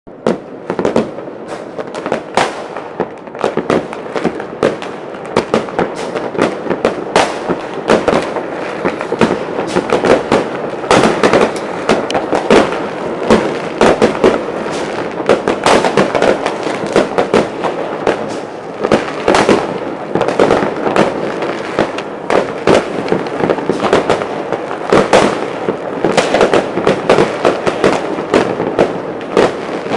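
Many fireworks and firecrackers going off at once, a dense continuous barrage of overlapping bangs and crackles with no pauses, loud throughout.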